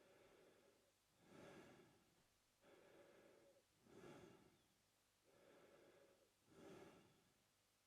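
A man breathing in and out through his open mouth, slow and steady, faint. There are about three full breaths, each breath in and out taking roughly a second.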